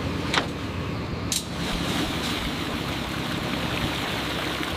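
Construction machine's engine running steadily, with two short clicks in the first second and a half.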